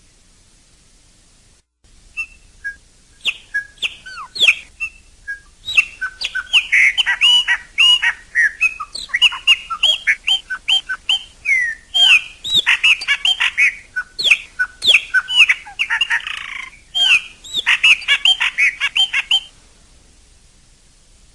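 Chopi blackbird (pássaro-preto, graúna) singing. After a few scattered notes it breaks into a long run of quick, varied whistles and chips, with a harsh note near the end, then stops about two seconds before the end.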